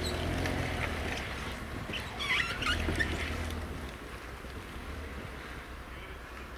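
A Jeep engine running at low revs, with a quick cluster of short high squeaks about two to three seconds in. It grows quieter from about four seconds in.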